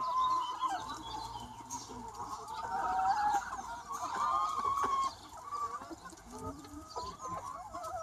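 A large free-range flock of hens clucking and calling over one another, many birds at once, busiest from about two and a half to five seconds in.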